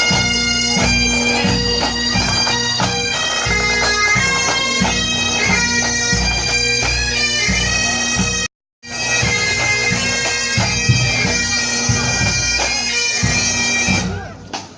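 Bagpipes playing a tune over their steady drone, with a regular drum beat underneath. The sound cuts out completely for a moment about halfway through and the music stops shortly before the end.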